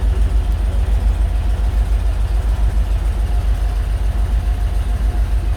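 Loud, uneven low rumble of an idling heavy-vehicle engine, with a faint steady whine above it.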